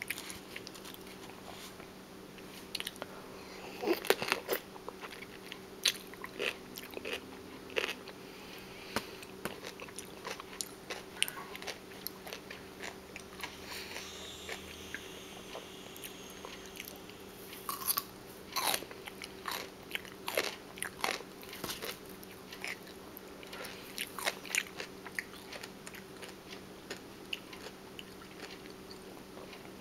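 Close-up chewing of crisp food: irregular crunches as pieces are bitten and ground between the teeth, with the louder bites standing out at uneven intervals.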